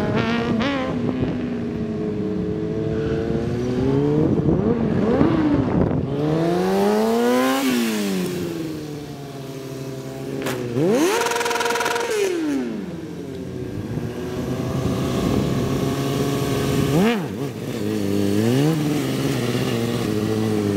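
Stunt motorcycle engine revving up and falling back again and again, its pitch climbing and dropping, with sharp hard revs about eleven and seventeen seconds in.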